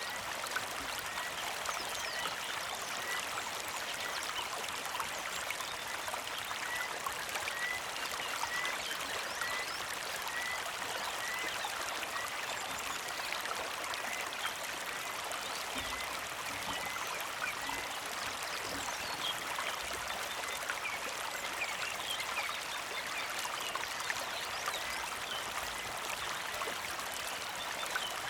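Small creek flowing and trickling steadily. A bird repeats a short high chirp about twice a second through the first half or so.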